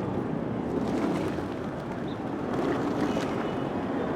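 City street ambience: a steady low wash of traffic and street noise, with a few faint high ticks.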